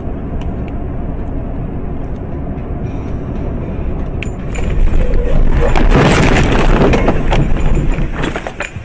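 A vehicle's engine and road noise rumble steadily. About halfway through comes a loud crash, a noisy burst of about two seconds full of rattling clicks, the sound of a vehicle collision.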